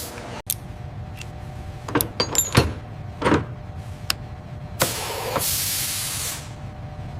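Steady low machine hum with a series of sharp clicks and clunks, then a hiss lasting about a second and a half that starts about five seconds in.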